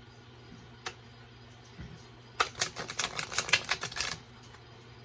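Oracle cards being riffle shuffled: a rapid flutter of card edges snapping together for about a second and a half, midway through. A single light click comes about a second in.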